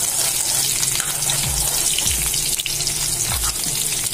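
Chopped garlic and onion sizzling in hot oil in a metal wok, stirred with a metal spatula that scrapes and taps against the pan now and then.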